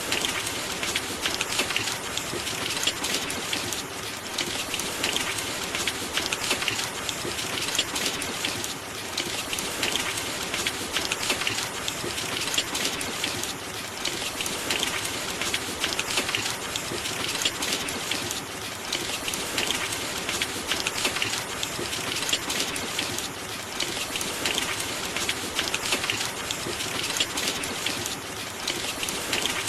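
Steady rain pattering, dense and even, with gentle swells every few seconds.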